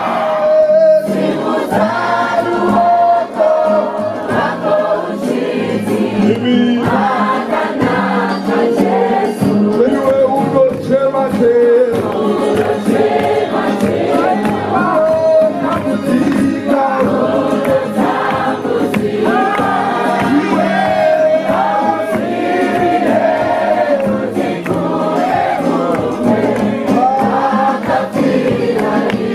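A group of voices singing a worship song together, choir-style, over steady low accompanying notes.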